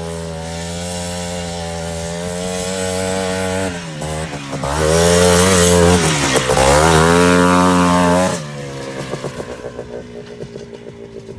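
Quad bike engine running steadily, then revving hard for about four seconds, its pitch dipping and climbing again, before the sound drops away suddenly about two-thirds of the way through.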